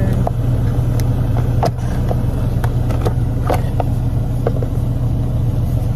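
Detroit DD13 inline-six diesel idling steadily, heard from inside the truck's cab, with a low, even hum. Several light clicks and taps from handling a cable connector sound over it.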